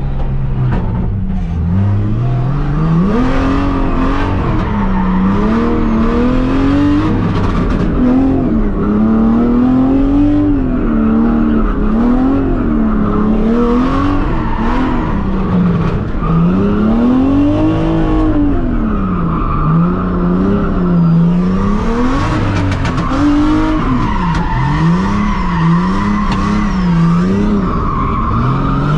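Car engine revving up and down over and over as the car is drifted, with tyres squealing.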